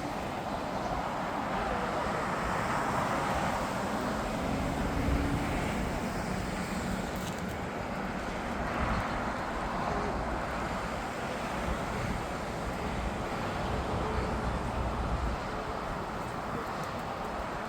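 Steady, even noise of jet aircraft engines mixed with road traffic, with some wind on the microphone.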